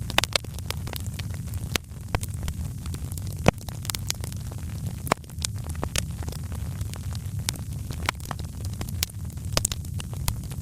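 Fireplace fire crackling: irregular sharp pops and snaps over a steady low rumble, with one louder pop a few seconds in.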